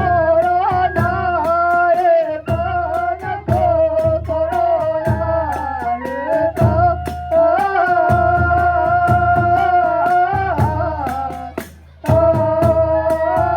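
Kagura hayashi accompaniment: a bamboo transverse flute plays a held, sliding melody over steady drum and metal percussion strikes. The music dips briefly near the end, then comes straight back in.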